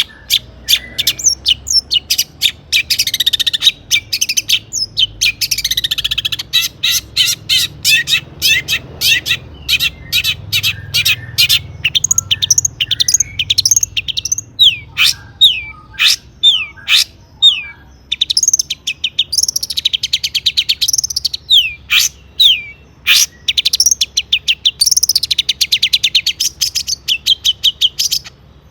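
Long-tailed shrike (cendet) singing a fast, varied song. It is a dense run of harsh chattering notes and rapid trills, with repeated downward-sweeping whistles, and it goes on without a break.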